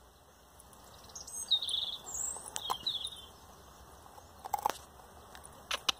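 A small bird chirping and twittering for about two seconds, with a few sharp crunches of a dog chewing a raw broccoli stalk, most of them in the second half.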